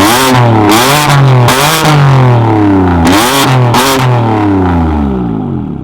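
A tuned car's engine is revved hard several times in quick succession through a loud exhaust, each blip rising and falling in pitch with crackle at the top. A final rev falls away slowly and dies out near the end.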